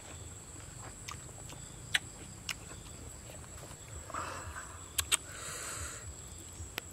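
Eating sounds: chewing and lip-smacking, with a few sharp mouth clicks and two short soft rustles near the middle.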